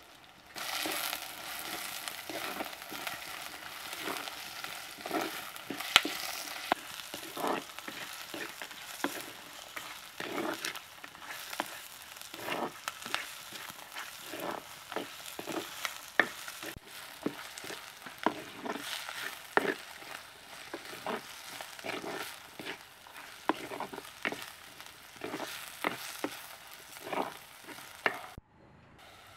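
Sliced onions, chilies, pandan and curry leaves sizzling in a black clay pot, with a spoon stirring them and scraping irregularly against the pot. The sizzle starts about a second in and cuts off abruptly near the end.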